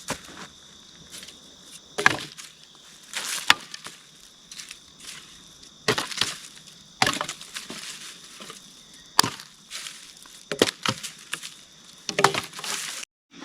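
Dry sticks being broken up for fire kindling: a string of sharp cracks and snaps at irregular intervals.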